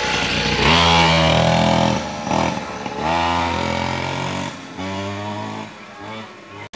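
Mini dirt bike's small engine revving in three rising surges, each climbing in pitch for a second or more, then dropping away near the end.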